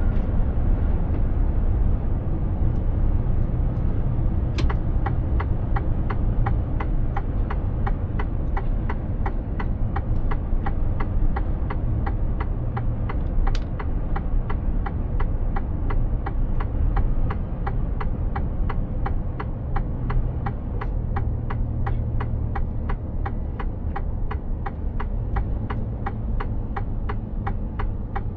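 Inside the cab of a Mercedes-Benz Actros truck on the move: steady diesel engine and road rumble. About five seconds in, a rapid, even ticking starts, two to three clicks a second, and keeps going; it is typical of the turn-signal indicator.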